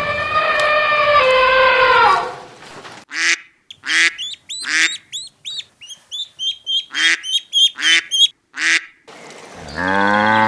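A long, slightly falling call fills the first two seconds. Then a duck quacks in a run of short calls, with high ducklings' peeps between them, and a deep drawn-out call begins near the end.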